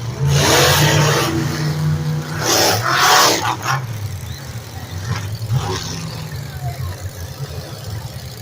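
Monster truck engines revving hard in loud surges over the first few seconds, then running lower and steadier.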